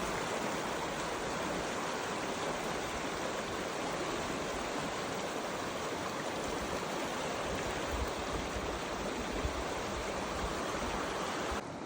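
Creek swollen to river size by storm run-off, rushing with a steady, noisy wash of water. The level drops suddenly just before the end.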